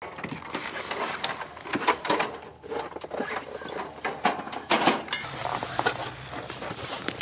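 Irregular knocks, clicks and rustling of things being handled, with a low steady hum coming in about five seconds in.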